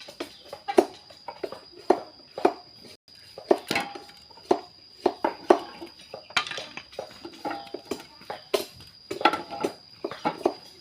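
Irregular knocks and clatters of hard objects striking and being handled, some sharper than others, over a faint steady high whine.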